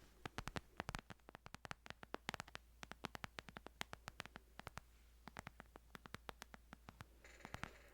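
Faint fingernail taps and clicks on a Bible, quick and irregular, several a second, over a low steady hum.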